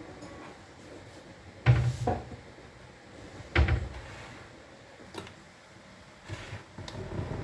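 Two loud thuds about two seconds apart, followed by a few lighter knocks.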